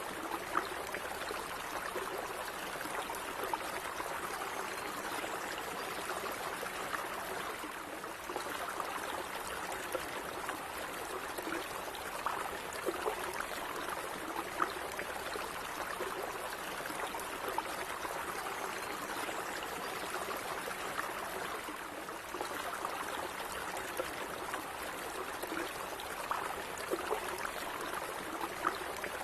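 A gently running stream, a steady trickling and burbling of water over small rocks with many little splashes and no pause.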